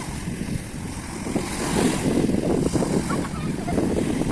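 Wind rumbling on the microphone by the sea, mixed with the wash of waves, growing louder about one and a half seconds in.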